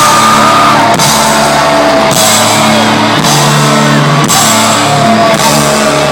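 Loud live rock band playing, with drums, bass and guitar.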